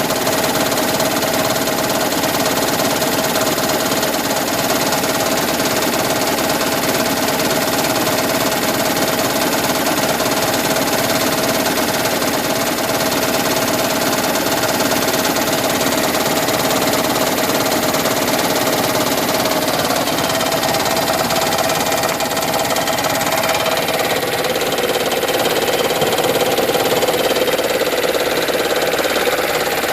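2010 Toyota Prius's 1.8-litre four-cylinder petrol engine idling with a rapid, steady knocking rattle (the 'raptor sound'). The knock comes while the engine idles to charge the hybrid battery, and swapping in coils, plugs and injectors from another car has not cured it. Its pitch drops slightly about two-thirds of the way through.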